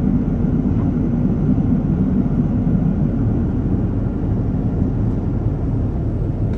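Steady low rush of an airliner in flight heard from inside the cabin: engine and airflow noise.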